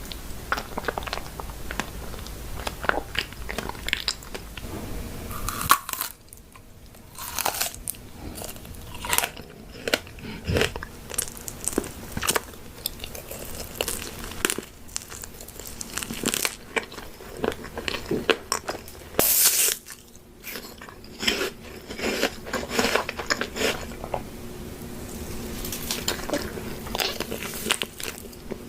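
Close-miked eating: crunchy food being bitten and chewed, with irregular crisp crunches and a few louder bites.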